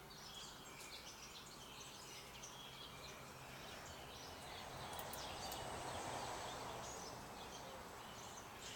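Small birds chirping and twittering over quiet outdoor ambience. A soft rushing noise swells in the middle and fades again.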